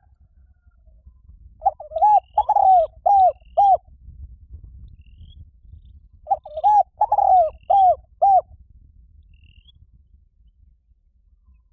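Spotted dove cooing: two phrases of about five rolling coos each, a few seconds apart.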